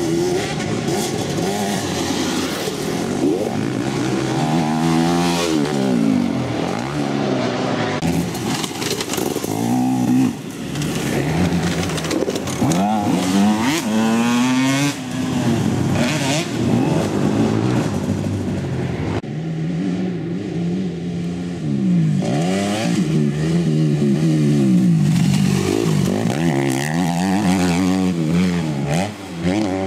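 Motocross bikes racing, their engines revving up and down in pitch through gear changes, often several bikes heard at once.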